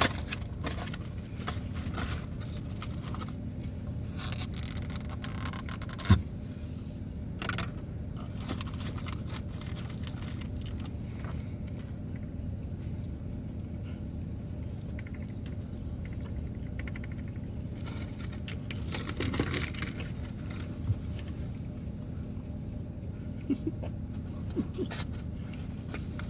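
Steady low rumble inside a car cabin, with scattered rustles and clicks of takeout food packaging being handled and a sharp click about six seconds in.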